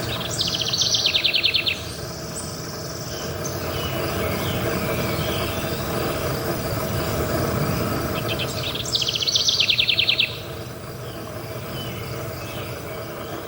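Forest ambience: a songbird gives a fast trill of rapid high notes twice, about eight seconds apart, over a steady background of insects chirping.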